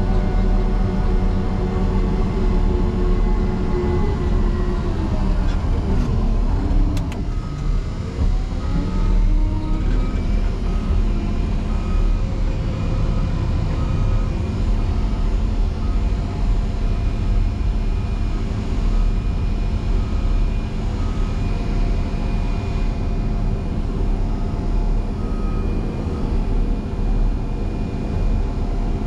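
Motor grader's diesel engine working against a snowdrift: its pitch sags a few seconds in, then climbs back and holds steady. From about a third of the way in, a backup alarm beeps at an even rate until near the end, as the machine reverses for another hit.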